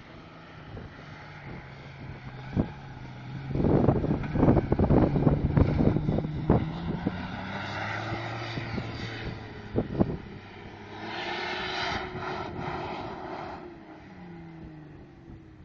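Land Rover engine revving hard as the 4x4 drives through soft dune sand, heard from a distance; the engine note climbs and then falls near the end. Wind buffets the microphone for a few seconds about four seconds in.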